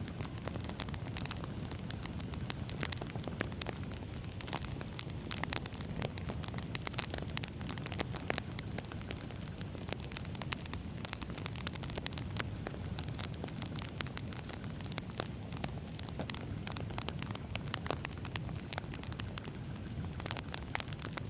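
Wood fire burning, with a steady low rumble and constant irregular crackles and pops of burning logs.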